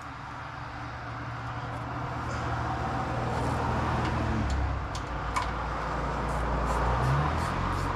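Road traffic from a nearby highway: a rumble that swells over the first few seconds as a vehicle passes and then holds, with a few light clicks over it.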